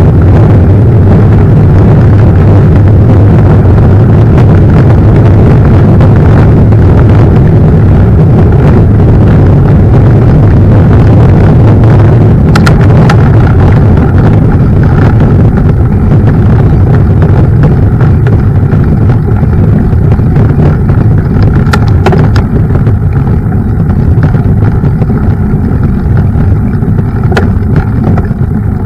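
Loud, steady wind buffeting on the microphone and the rolling rumble of a mountain bike riding a trail, with a few sharp knocks in the second half.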